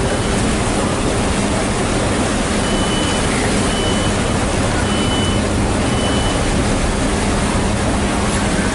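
Steady loud wind and engine rumble with a low hum, and a short high electronic beep repeating four times, about a second apart, midway through.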